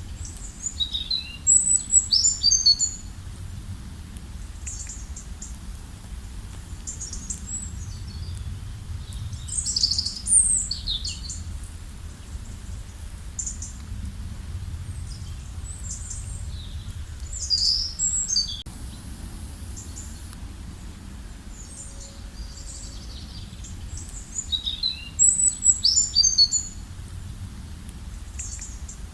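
Songbirds singing in short bursts of high, quick chirps, four separate outbursts, over a steady low background rumble.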